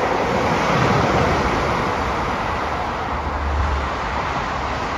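Diesel multiple unit train running past on the line below, a steady rumble and rail noise that swells over the first second and then holds, with a deeper hum a little after three seconds. Wind noise on the microphone lies over it.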